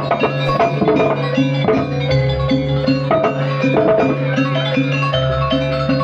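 Banyuwangi jaranan gamelan music: struck metal keyed instruments playing a quick repeating melody with drums, over a steady low tone, with deep low notes about two seconds in and again near five seconds.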